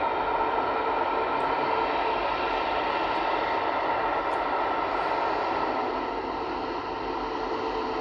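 Jet airliner engines running: a steady roar with a faint constant whine in it, easing slightly about six seconds in.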